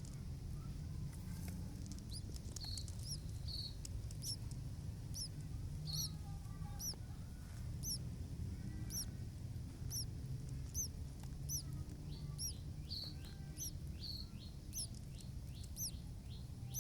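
Newly hatched nestlings cheeping: thin, high chirps repeated about once or twice a second, over a steady low rumble.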